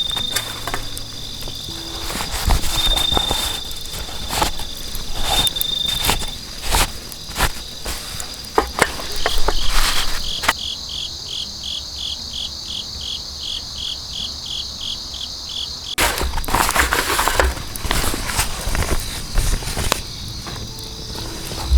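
Autumn crickets and other insects chirping steadily, high-pitched. For several seconds in the middle a pulsed chirp comes about three to four times a second with little else under it. Before and after, scattered sharp clicks and knocks sound over the insects.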